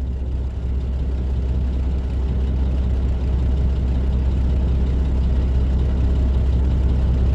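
Dump truck's diesel engine running, heard from inside the cab as a steady low rumble that grows slightly louder over the few seconds.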